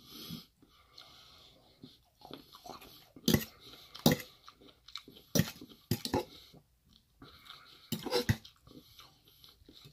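Close-up eating sounds: wet chewing of a mouthful of tofu curry and rice, broken by about half a dozen sharp clicks and smacks, with a fork clinking and scraping in a metal bowl.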